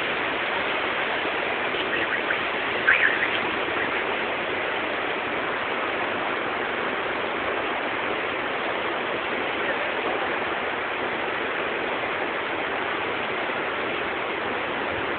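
Freshly lit bonfire burning with a steady hiss, with a sharp crackle about three seconds in.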